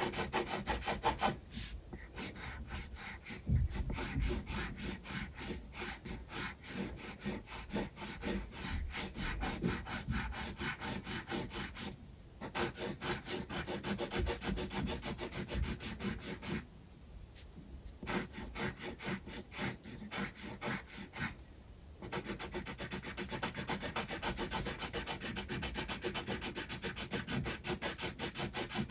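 Graphite pencil scratching on sketchbook paper in rapid back-and-forth shading strokes, with a few short pauses.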